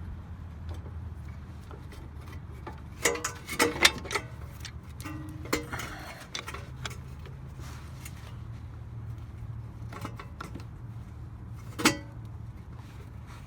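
Metal tools clinking and clanking against a brake caliper while the caliper piston is being pushed back in, with a cluster of ringing knocks a few seconds in and one sharp clank near the end, over a low steady hum.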